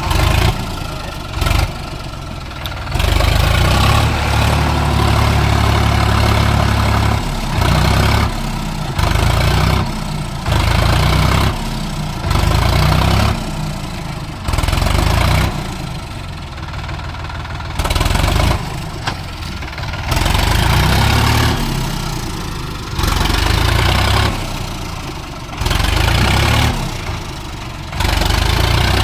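Sonalika tractor's diesel engine revved hard in repeated surges, every second or two and once for about four seconds near the start, dropping back to a lower speed between each. This is the sound of the tractor labouring in mud with its wheels slipping.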